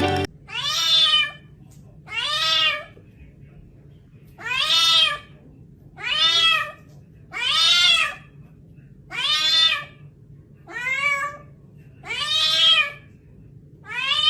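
A kitten meowing over and over: about nine drawn-out meows, each about a second long, rising then falling in pitch, one every second and a half or so.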